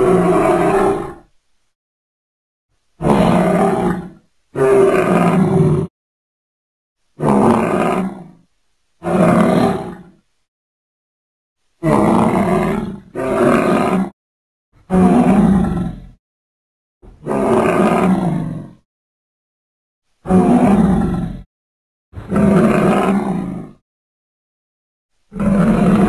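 Sound-effect vocalizations made for the extinct Siberian unicorn rhinoceros Elasmotherium: about a dozen separate roaring calls, each a second or so long, with dead silence cut between them.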